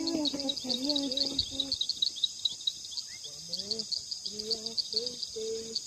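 Crickets chirping in a fast, steady, high-pitched pulse, with two brief stretches of an indistinct low voice, one near the start and one in the second half.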